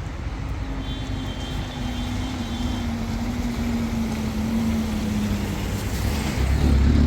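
A motor vehicle's engine running, a low rumble with a steady hum, growing louder near the end.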